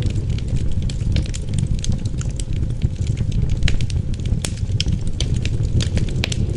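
Wood fire crackling in a fireplace, with frequent sharp pops and snaps over a steady low rumble of wind.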